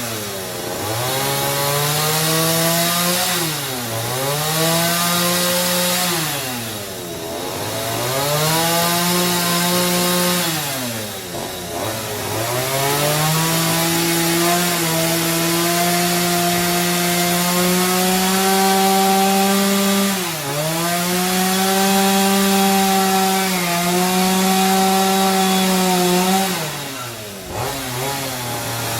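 Chainsaw cutting timber rafters, its engine pitch sagging as the chain bites into the wood and climbing back again, every few seconds.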